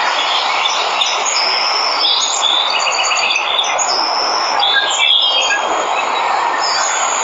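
Steady rush of a waterfall, with several jungle birds chirping in short, quick high notes and trills over it.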